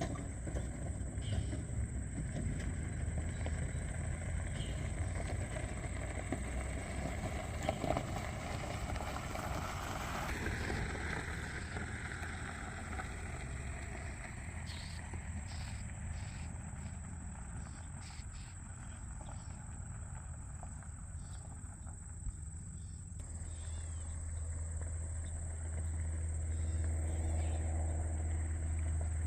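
Steady low rumble of road traffic, with one vehicle swelling past about a third of the way in and the rumble growing louder near the end. Under it runs a constant thin, high insect drone. Short sharp call notes, likely scolding chips from a bird, come in scattered clusters.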